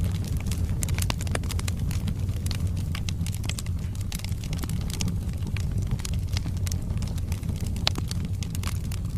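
Log fire burning in a fireplace: dense, irregular crackling and popping of the burning wood over a steady low rumble of the flames, with one sharper pop near the end.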